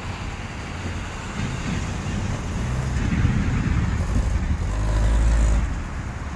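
Road traffic: cars driving along the street, with a vehicle passing close by; its low rumble builds to a peak about four to five and a half seconds in, then falls away.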